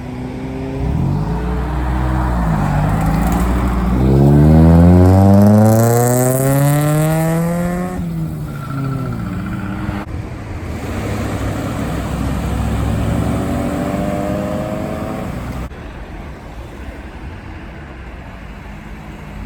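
Cars driving past one after another as they pull away. About four seconds in, one accelerates hard, its engine note rising steadily for about four seconds; this is the loudest part. A second, quieter car accelerates with a rising note a few seconds later.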